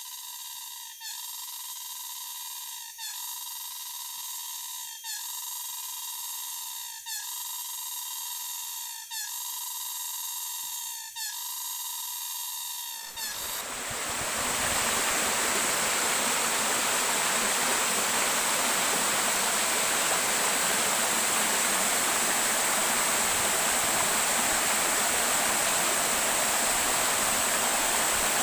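A waterfall's steady rushing roar of falling water, which takes over about halfway through. Before it comes a high, layered tonal drone that pulses about every two seconds and then cuts off abruptly.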